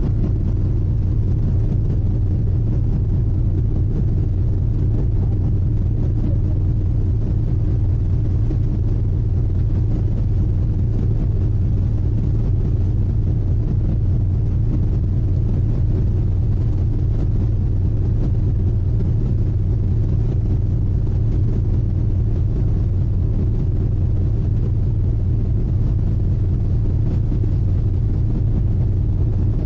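Steady low rumble of a sightseeing icebreaker's engines heard on board, with an even hum over it.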